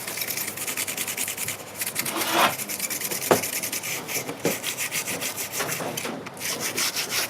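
Rapid, continuous scraping and rubbing of a hand tool working on a phone, with a sharper knock a little over three seconds in.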